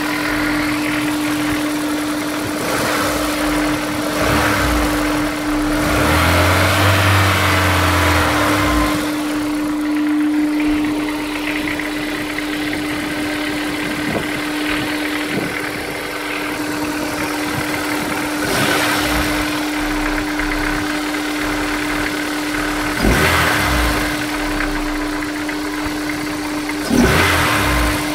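Honda S2000's four-cylinder engine idling, with one brief rev that rises and falls about six seconds in; the owner suspects rod knock. Two sharp knocks come near the end.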